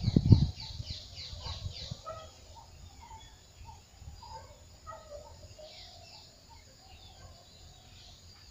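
Birds calling: a quick run of short, high, falling notes about four a second that stops about two seconds in, then scattered softer chirps. A low thump comes right at the start and is the loudest sound.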